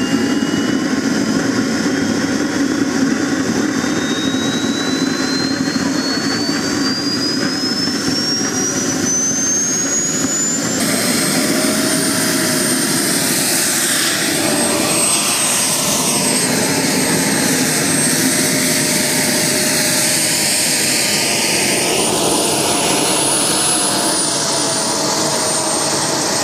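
Frank model jet turbine in an F-86 Sabre RC jet, its whine climbing steadily in pitch for about eleven seconds as it spools up. It then holds a high, loud whine, with a brief rise and fall in pitch near the end.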